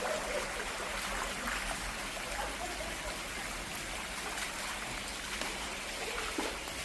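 Floodwater flowing with a steady rush.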